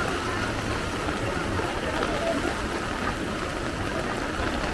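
Strong-flowing floodwater on a flooded street rushing steadily.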